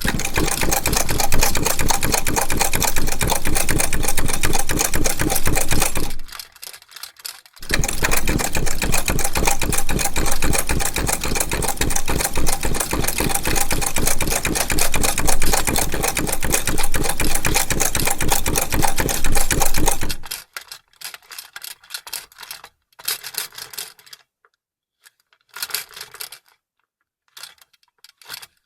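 Vintage sewing machine stitching at speed with a rapid, even clatter, in two long runs of about six and twelve seconds with a short stop between them. After about twenty seconds it gives only short, scattered bursts and clicks.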